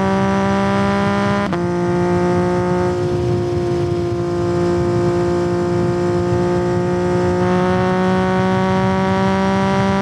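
2021 Yamaha MT-09's 890 cc inline-three engine through a Yoshimura R77 carbon exhaust, pulling under acceleration with revs slowly rising. It makes a quick upshift about a second and a half in, with the pitch dropping at once. It then holds nearly steady revs on lighter throttle before pulling harder again near the end.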